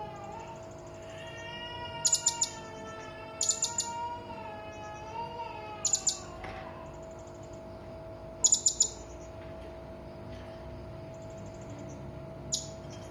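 Serindit (hanging parrot) calling: sharp, very high chirps in quick clusters of two or three, repeated every couple of seconds. Fainter rapid trills come between them, and a wavering lower whistle is heard in the first half.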